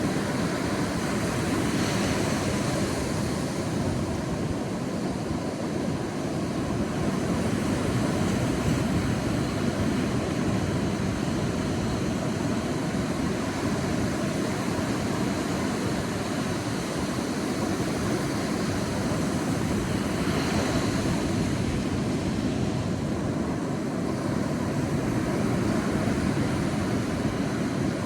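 Sea waves on a beach: a steady wash of surf, with a wave breaking and hissing up about two seconds in and again about twenty seconds in.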